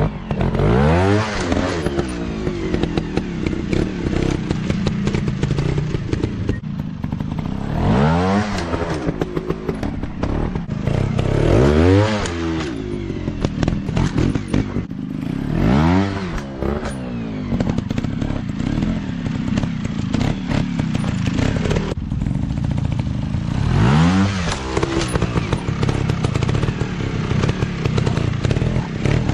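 Dirt bike engines running steadily and revving up and back down about five times, with mechanical clatter over the engine note.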